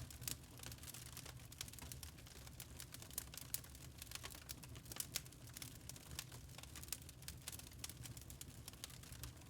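Wood fire crackling in a fireplace: a dense run of irregular small pops and snaps, a few sharper than the rest, over a low steady rumble of burning.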